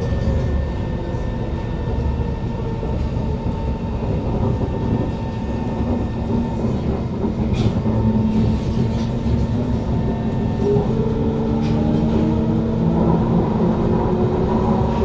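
Interior of a Kawasaki Heavy Industries C151 metro car running: steady wheel and track rumble with the whine of its GTO-VVVF traction inverter and motors. A steady low tone sets in about a third of the way through, and several higher tones glide and shift in the second half.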